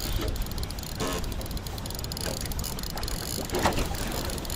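Strong wind rumbling steadily on the microphone in an open boat, with a few faint, muffled voice fragments.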